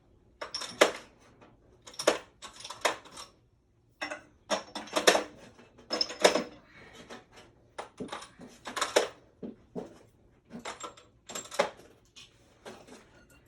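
Irregular metallic clanks and clinks of metal tools and fittings being handled during furnace installation work, about a dozen sharp knocks spread unevenly, some with a brief ring.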